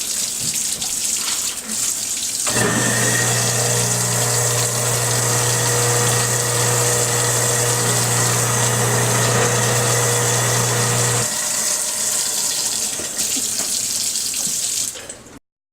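Water running from the tap into the sink throughout. About two and a half seconds in, the garbage disposal switches on and hums steadily for about nine seconds, now with the jammed debris cleared out, then shuts off while the water keeps running. The water cuts off abruptly near the end.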